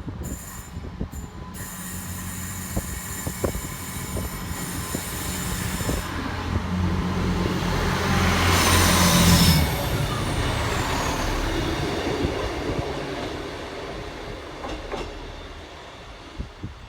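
A train passing through, growing louder to a peak about nine seconds in and then fading away. A steady low hum stops sharply at the peak, and a high whine falls in pitch just after it.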